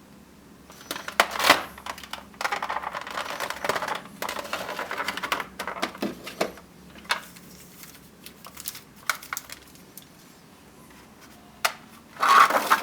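Rustling and light clicking of the box and packaging as a 1:400 die-cast model airliner is lifted out: a busy stretch of rustles and taps in the first half, scattered small clicks after, and a louder rustle near the end.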